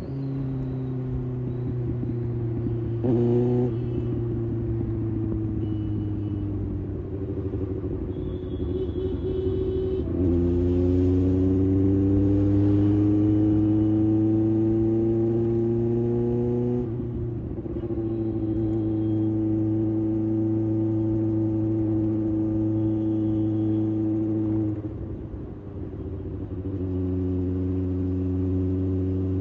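Kawasaki ZX-6R's inline-four engine running under way. About ten seconds in the revs climb steadily through a gear and then drop at a shift, with a brief lift off the throttle shortly before the end.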